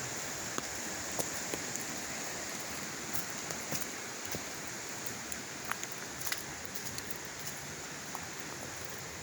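Steady rushing of water, with scattered light, irregular ticks like droplets falling.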